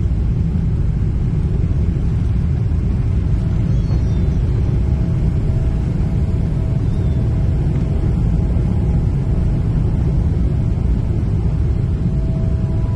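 Jet airliner's engines during takeoff: a steady, heavy low rumble with a faint steady whine coming in about five seconds in.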